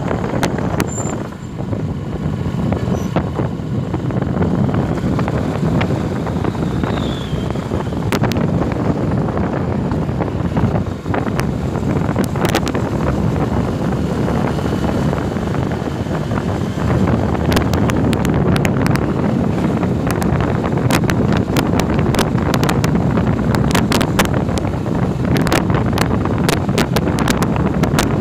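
Wind rushing over the microphone of a moving motorcycle, with the engine and road noise underneath. Frequent sharp crackles of wind buffeting start about halfway through.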